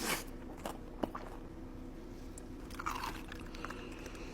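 A person biting into crispy fried food with a crunch at the start, then chewing, with a sharp click about a second in and another crunchy bite near three seconds.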